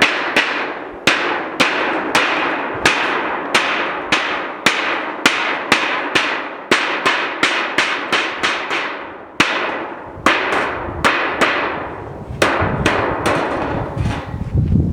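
Hammer blows on sheet-steel roofing, struck about two to three times a second, each with a short ringing decay. There are brief pauses about nine and a half and twelve seconds in, and the blows stop near the end.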